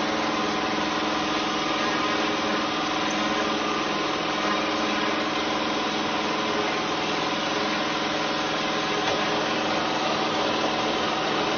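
An engine running steadily at a constant speed, with a continuous even hum of several fixed tones over a noisy hiss.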